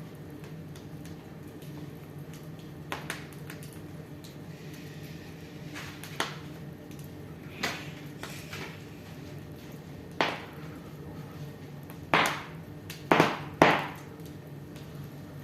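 Wood fire burning in a fireplace, crackling with sharp pops every second or two that come closer together and louder near the end, over a steady low hum.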